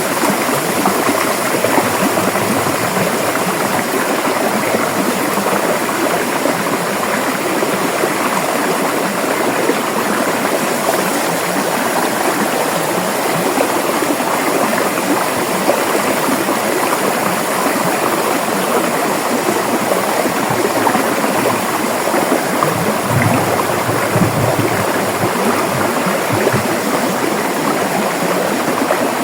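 River water rushing and gurgling over rocks in a steady, dense wash, with a slightly fuller, deeper surge about twenty-three seconds in.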